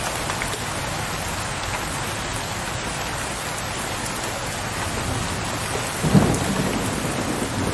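Steady rain falling, with a low thunder rumble that breaks in about six seconds in and keeps rolling.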